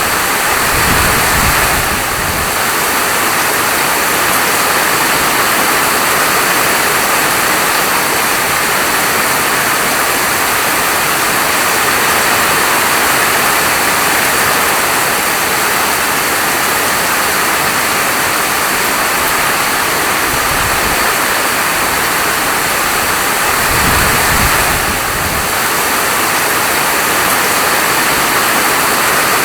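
Steady heavy rainfall, an even dense hiss with no pauses. Twice a brief low rumble rises under it, about a second in and again about 24 seconds in.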